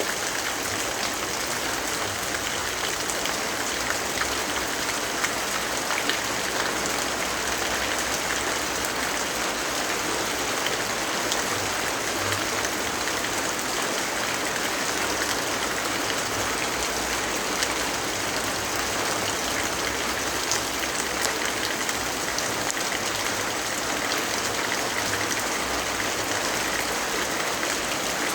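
Steady rainfall, an even hiss with scattered faint ticks of individual drops.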